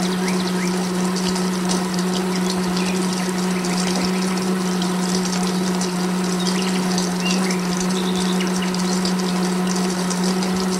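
Small electric water pump running with a steady hum, water flowing and splashing.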